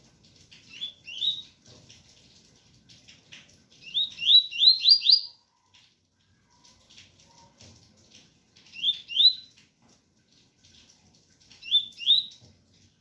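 Double-collared seedeater (coleiro) singing its 'tui-tui' song: short phrases of quick upward-sweeping whistles, mostly in pairs, with one run of four in a row. Rain patters faintly underneath.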